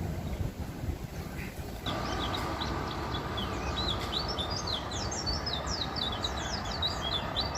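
A white-eye (pleci) twittering in a fast run of short, high chirps that thickens into an almost continuous stream about two seconds in, over a steady background noise.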